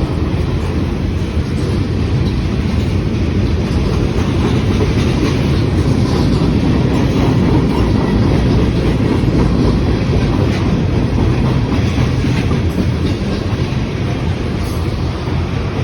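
Freight cars of a manifest train rolling past: a steady rumble of steel wheels on rail with light irregular clicking.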